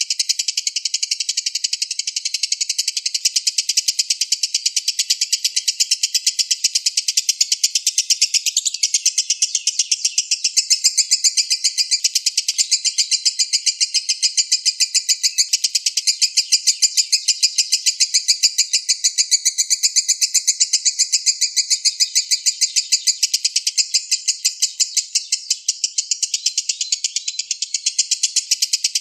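Lovebird giving its long, unbroken 'ngekek' chatter: a shrill stream of rapid, evenly repeated notes.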